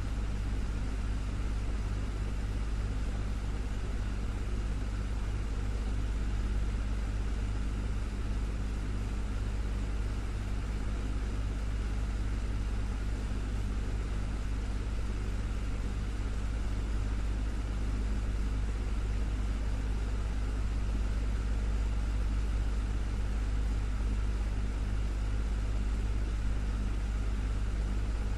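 Desktop fan running steadily: a constant low hum with a faint even rush of air.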